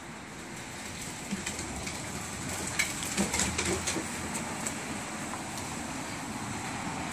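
A vehicle towing a trailer-borne car drives up, with a steady road rumble that grows slightly louder and a run of short rattles and clanks about three to five seconds in.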